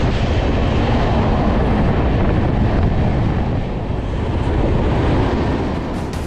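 Loud, steady rumble and rush of air from a moving passenger train, heard from its open side, as an oncoming electric-hauled train passes close by on the adjacent track.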